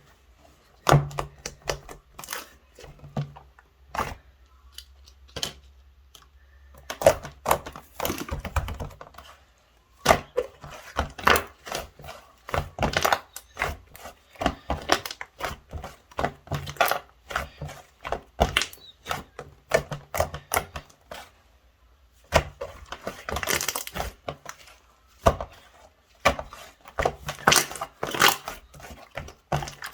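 White slime being squeezed and pressed by hand, giving rapid irregular clicks, pops and crackles in clusters with short pauses.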